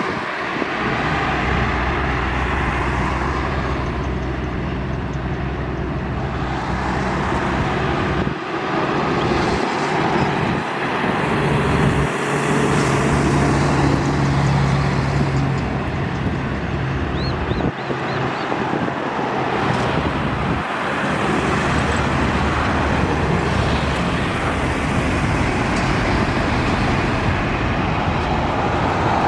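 Heavy highway traffic: diesel trucks and other vehicles passing one after another, engines droning and tyres hissing, one passing truck's engine hum swelling loudest about halfway through.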